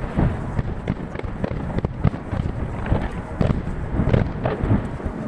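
A rapid, uneven string of aerial firework shell bursts: many sharp bangs, each trailed by echo. They are heard from about 800 m away through a smartphone microphone and played back at three times speed.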